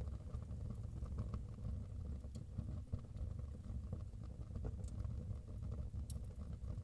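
Wood fire burning in a fireplace: a steady low rumble with sparse crackles, and a few sharper snaps spread through.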